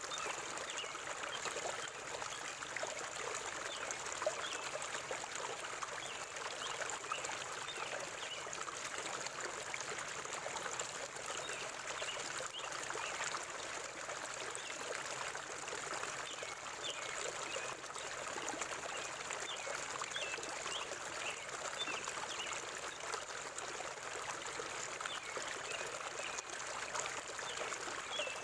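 Forest river water flowing and trickling steadily, a continuous babble with small splashy notes scattered through it.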